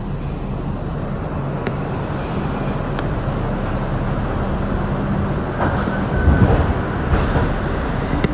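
Kawasaki R62 subway car running on the track: a steady motor hum and wheel noise that grow slightly louder, with clacks over the rails and a brief squeal about six seconds in.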